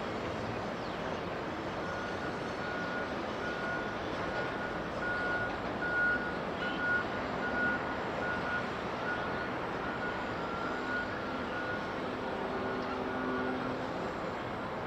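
A vehicle's reversing alarm beeping at one steady pitch, about two beeps a second, starting a couple of seconds in and stopping near the end, over a steady broad background rumble.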